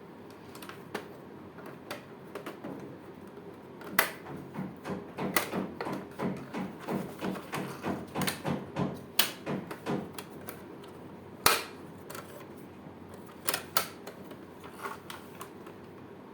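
Plastic toys being handled: a run of light clicks and knocks, a dense rattling stretch in the middle, then a single sharper knock and a quick pair of knocks near the end.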